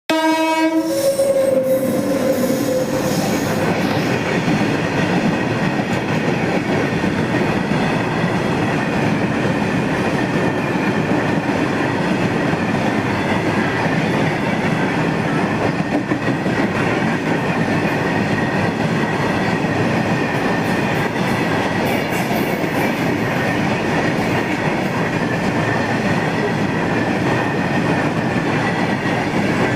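Indian Railways freight train running past on the track: a steady rumble of wagons with a faint steady squeal from the wheels. A horn sounds briefly at the very start and dies away within the first couple of seconds.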